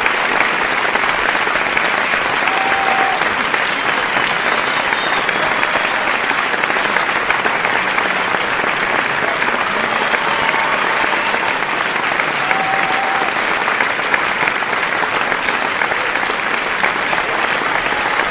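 Large crowd applauding, dense steady clapping from many hands that neither swells nor fades.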